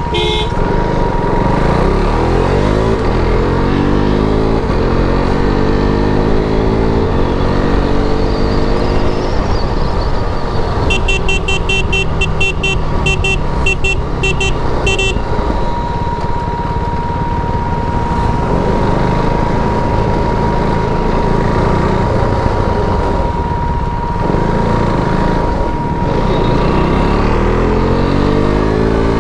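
KTM RC390's single-cylinder engine on its stock exhaust, pulling hard and climbing in revs again and again as it shifts up through the gears. About eleven seconds in, a horn beeps in a rapid string of short toots for several seconds.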